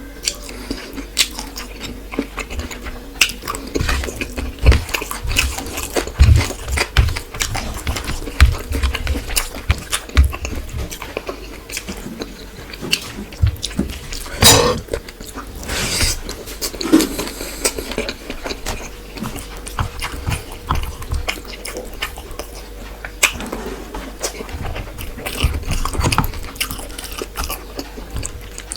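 Close-up eating sounds of fish, rice and curry: chewing and lip smacking with many small irregular clicks and soft low thumps. There is a louder short sound about halfway through.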